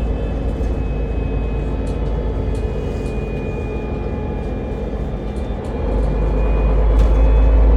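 Bus in motion: a steady low rumble with a faint, thin whine above it. It eases slightly, then swells again about six seconds in.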